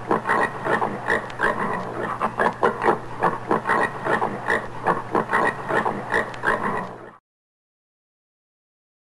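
Common warthog grunting in a fast run of short grunts, several a second, that cuts off abruptly about seven seconds in.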